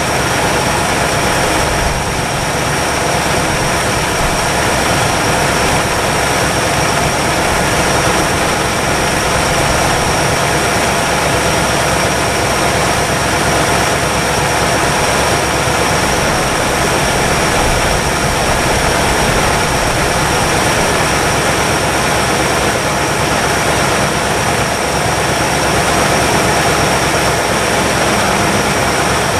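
1962 Chevrolet engine running steadily on fast idle while it warms up, not yet quieted down after long storage.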